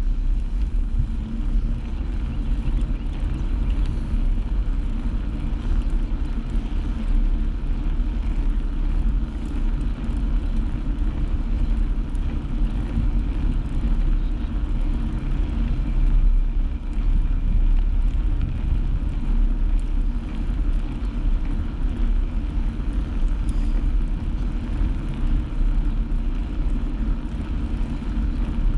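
Steady low rumble of a bike ride in motion: road and vehicle noise with no let-up.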